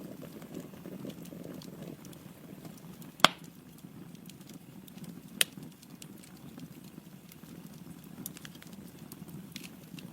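Wood fire burning in a fireplace: a steady low rush of flames with small crackles throughout, and two sharp loud pops from the logs, about three seconds in and again about two seconds later.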